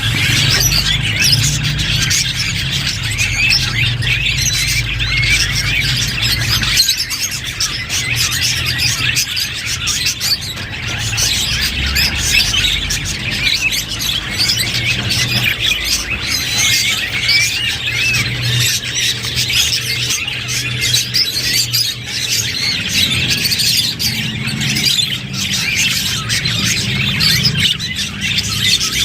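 Budgerigars chattering and warbling: a dense, continuous run of fast chirps and squeaks, with a low steady hum underneath.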